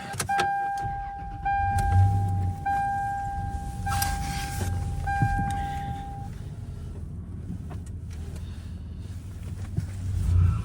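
A vehicle's warning chime: one steady tone that sounds in about five one-second stretches with short breaks, then stops about six seconds in. A low rumble runs underneath.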